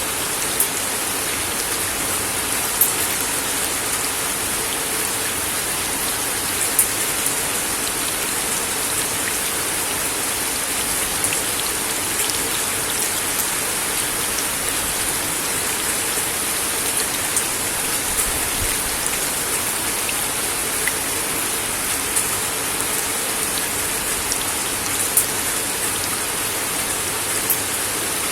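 Steady rain falling on a wooden deck: an even patter with single louder drops ticking out now and then.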